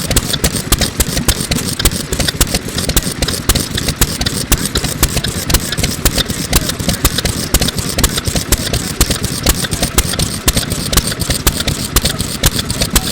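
MIKAWA 2 hp single-cylinder oil engine of around 1950 running steadily, its exhaust coming out of a small muffler in sharp, regular beats, several a second.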